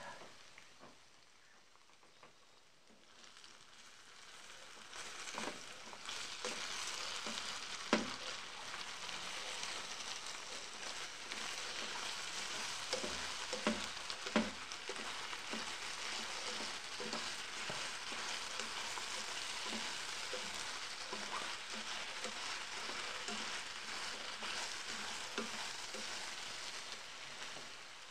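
Chopped cabbage sizzling as it fries in a pan. The sizzle picks up a few seconds in and then holds steady. A plastic spatula stirs and scrapes through it, with a few knocks against the pan, the sharpest about 8 and 14 seconds in.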